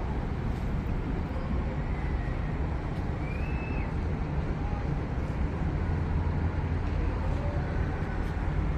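Steady low rumble of harbour ambience, with faint distant voices.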